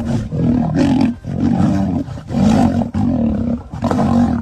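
Two lions fighting, giving a run of loud, rough roars and snarls one after another with brief breaks between them.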